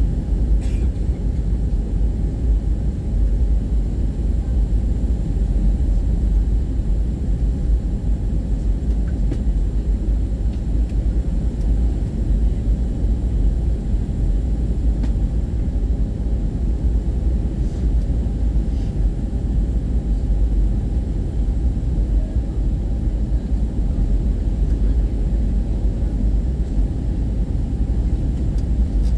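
Steady, even cabin rumble inside an Airbus A320-232 jet airliner: deep airflow and engine noise with faint steady tones above it, unchanging throughout.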